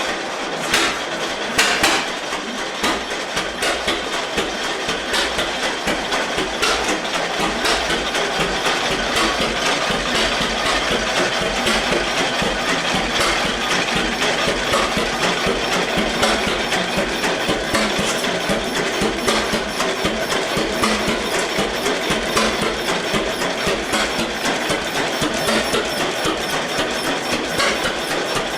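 1919 Eagle 12-22 two-cylinder tractor engine running steadily with an even, rapid knocking beat. A few sharper, louder knocks come in the first two seconds.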